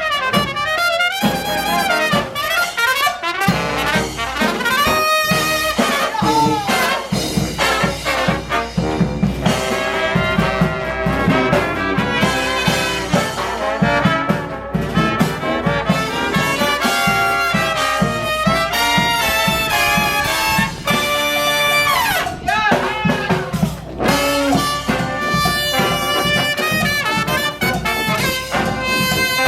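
A small brass band playing a tune live, trumpets and trombone carrying the melody over a steady low beat.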